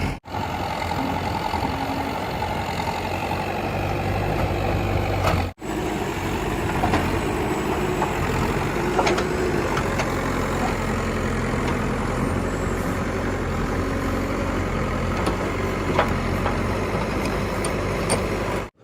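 Diesel engine of heavy machinery running steadily at a low, even speed, with a few faint clicks and knocks. The sound drops out briefly twice, near the start and about a third of the way through.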